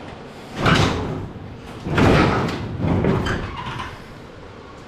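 Old truck sheet metal being pulled and shifted loose, two long scraping, rattling pushes of metal on metal.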